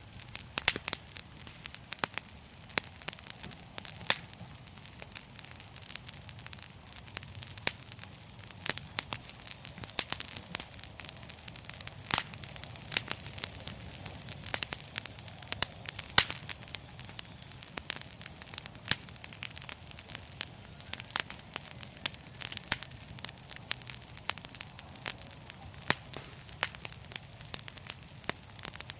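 Fireplace fire crackling continuously, with frequent irregular sharp pops and snaps over a low, steady rumble of the flames.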